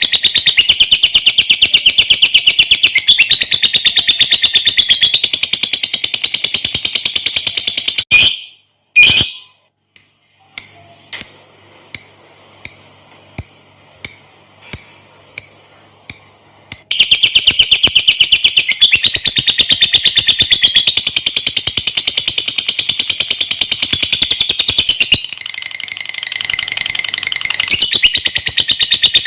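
Lovebird (Agapornis) ngekek: a long, shrill, very rapid chattering trill held for several seconds. About eight seconds in it breaks off, a row of about ten short separate chirps follows, and around seventeen seconds the long rapid chatter starts again.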